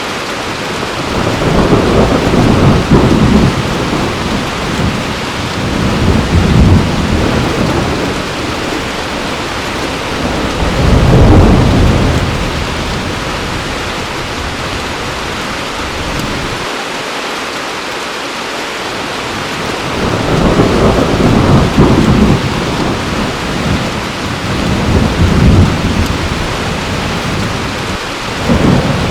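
Heavy rain falling steadily, with rolls of thunder rumbling up and fading away several times over it.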